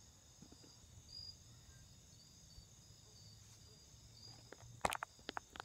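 Faint insects, likely crickets, chirping steadily in short repeated high-pitched pulses over a low outdoor rumble. A few sharp knocks near the end, like footsteps.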